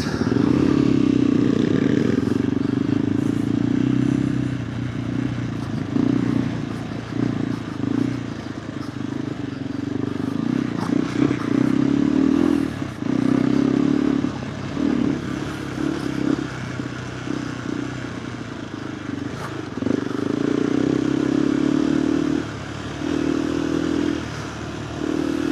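KTM 390 Adventure R's single-cylinder engine through a Norifumi Whoops stainless slip-on exhaust, ridden on a dirt trail, the throttle opening and closing in stretches of a few seconds. Scattered short knocks and rattles sound over the engine.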